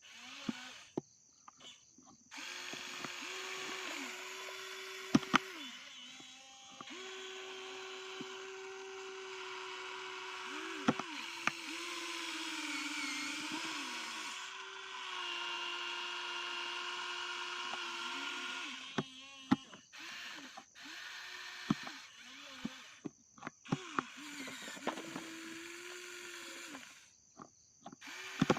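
Small electric motor and gearbox of a toy dump truck whining in runs of a few seconds, starting and stopping repeatedly, its pitch dipping and shifting as it runs, with sharp clicks in the pauses.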